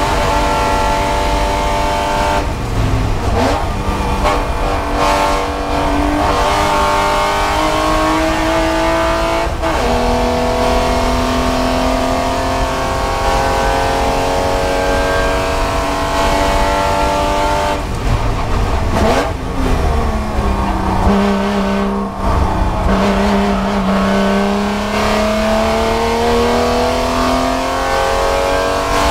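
Spec Boxster's flat-six engine at racing speed, heard from inside the cockpit. It holds a high note in fourth gear and dips briefly a couple of times. About two-thirds through it falls as the car slows and shifts down to third, then climbs steadily as the car accelerates out.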